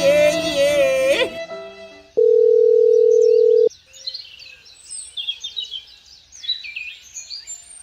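Music with a wavering sung voice, ending about a second in. Then a single loud, steady electronic beep lasting about a second and a half. After that, faint birds chirp.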